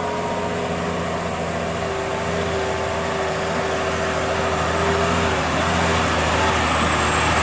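Heavy truck's diesel engine running steadily with a low rumble and a held hum, getting a little louder in the last couple of seconds.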